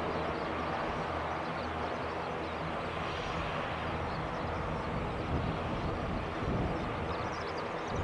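An ATR 42-600's Pratt & Whitney PW127M turboprop engines running at taxi power: a steady propeller drone with several held low tones. About halfway through, the tones fade and a rougher, low rumble takes over.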